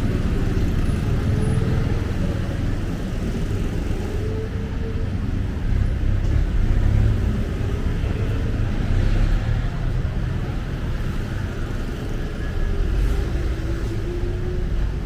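Road traffic: a steady low rumble of motor vehicles running past, with faint engine tones wavering up and down.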